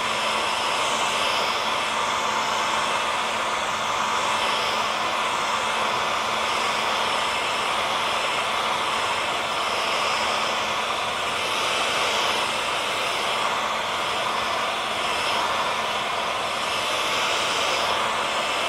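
Hair dryer running steadily: an even whoosh of blown air with a faint, constant hum from its motor and fan.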